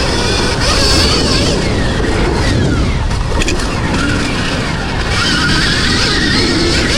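Stark Varg electric dirt bike being ridden: a faint electric motor whine rising and falling with the throttle, under loud wind and tyre-on-dirt noise.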